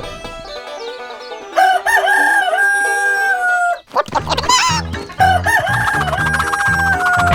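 A rooster crows twice, each a long call ending in a held note that slowly falls in pitch, over backing music. A steady beat joins the music about halfway through.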